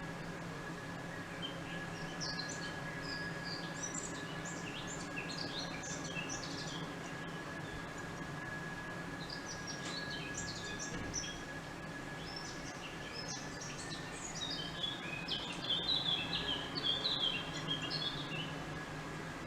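Small birds chirping and singing in several bursts, busiest and loudest near the end, over a steady outdoor hum with a faint high steady tone that fades out about two-thirds of the way through.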